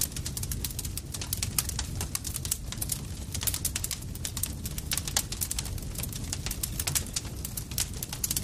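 Campfire crackling: many sharp, irregular snaps and pops, several a second, over a steady low rumble from the burning wood.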